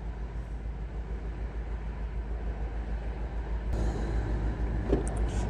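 Nissan Versa's four-cylinder engine idling with an uneven low rumble from a misfire on cylinder 4. The sound gets louder a little under four seconds in.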